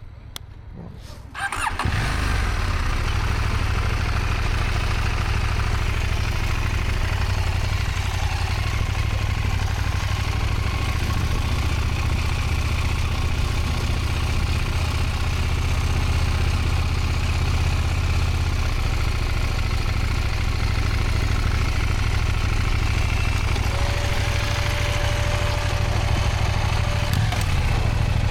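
Motorcycle engine starts up about a second and a half in and then runs steadily at low revs, with a steady whine for a few seconds near the end.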